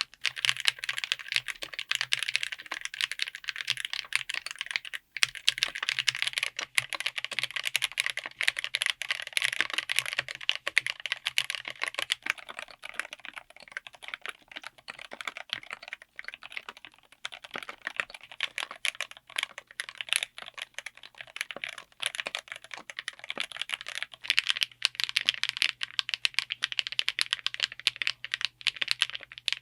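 Continuous fast typing on a full mechanical keyboard fitted with linear switches: a dense, even clatter of keystrokes, lighter for a stretch in the middle.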